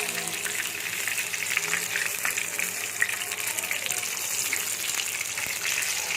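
Coated chicken pieces deep-frying in hot oil: a steady sizzle with many small crackling pops.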